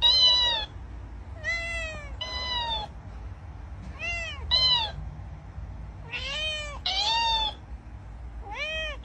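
Domestic cat meowing repeatedly, about eight short meows, mostly in pairs. Each meow rises and falls in pitch.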